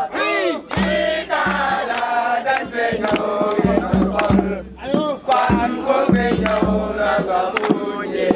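A group of voices chanting and singing together, a campfire-style song, over repeated low thumps.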